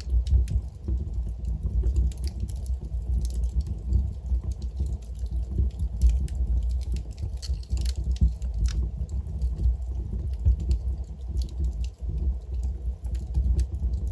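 Wood logs burning in a fireplace: a steady low rumble of flames with irregular sharp crackles and pops, thickest around the middle.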